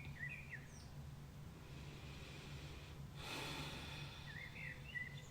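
Dawn birdsong, with short warbling phrases near the start and again near the end. Between them, from about two seconds in, a long breathy exhale close to the microphone, the loudest sound here, over a low steady hum.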